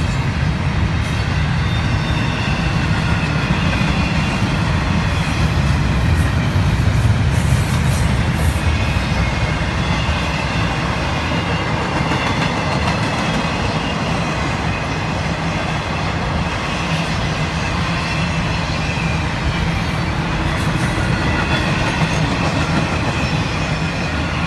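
CSX intermodal freight train rolling past: a steady low rumble of wheels on rail, with clicking wheel clatter and a faint wheel squeal.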